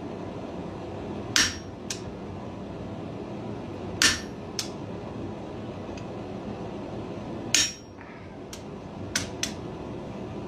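Blacksmith's hammer striking a hand-held spring-steel fuller set on hot steel, driving it in to isolate the bulldog's ears. Four heavy blows come a few seconds apart, each followed by a lighter tap, over a steady background noise.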